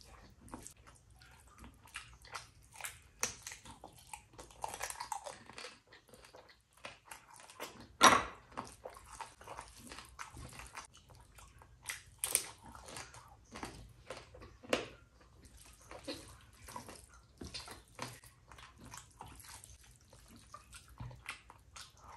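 A person eating rice and curry: chewing and biting, with irregular mouth clicks and smacks, and one much louder sharp sound about eight seconds in.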